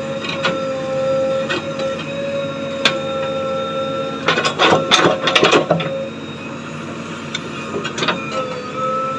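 Backhoe loader at work: its engine runs with a steady whine, scattered clicks, and a burst of clattering from about four to six seconds in.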